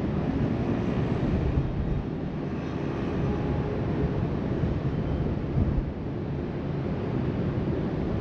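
Wind buffeting the microphone over the steady wash of surf breaking along the shoreline below.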